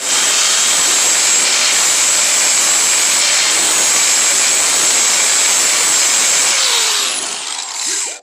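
Power tool running loud and steady at full speed during metalwork, then winding down with a falling pitch near the end before it cuts out.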